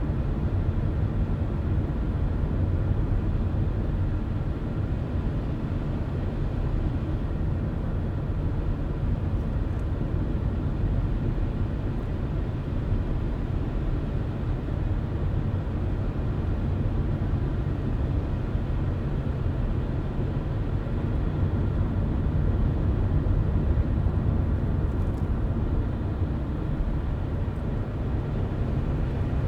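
A car driving at a steady speed: a constant low rumble of road and engine noise, with no change in pace throughout.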